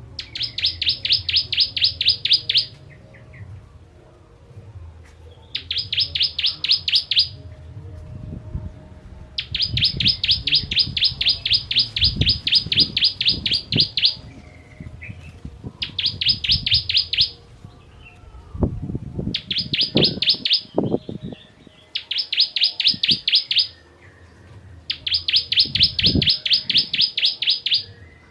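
Ciblek kristal (a prinia) singing in rapid bursts: trains of sharp, evenly repeated high notes, about six a second, each train lasting two to five seconds, seven times over with short pauses between. A few faint low thumps lie underneath.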